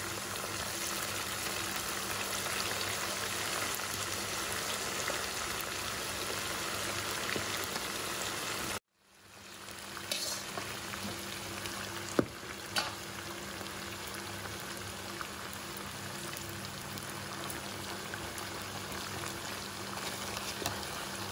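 Chicken pieces deep-frying in hot oil with curry leaves, pandan leaves and green chillies in a wok: a steady sizzle. It cuts out abruptly about nine seconds in and fades back, and there are a couple of sharp pops a little after.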